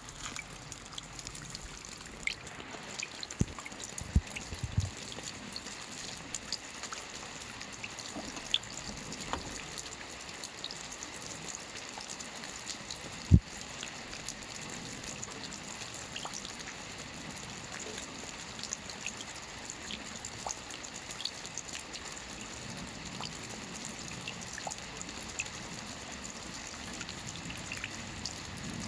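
Soft rain falling steadily on a roof: an even patter with scattered single drops ticking out, and one louder drop or knock about thirteen seconds in.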